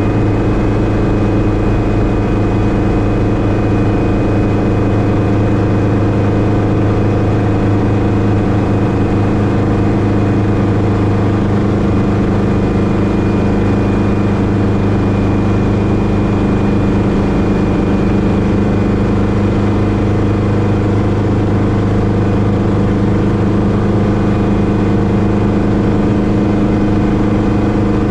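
Schweizer 300C (Hughes 269C) light helicopter's Lycoming four-cylinder piston engine and rotors running steadily, a loud even drone with a strong low hum.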